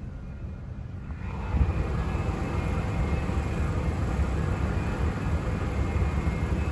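Union Pacific grain train rolling past, a steady heavy rumble that swells about a second in and holds, with faint steady high ringing tones over it.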